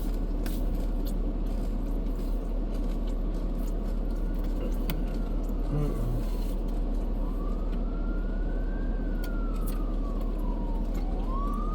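An emergency-vehicle siren wailing, its pitch rising and falling slowly, coming in about halfway through and starting another rise near the end, over a steady low rumble.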